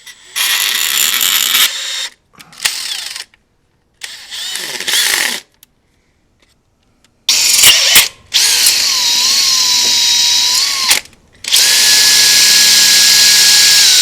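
Electric drill boring out the coil bolt holes in an aluminum valve cover, started and stopped in three short bursts and then two longer runs. In the last run the motor whine is steady and higher in pitch.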